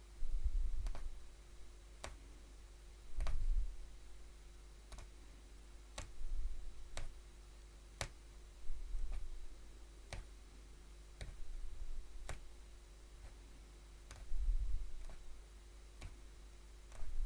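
Punch needle pushing through fabric, a sharp click about once a second, with a few low thumps in between.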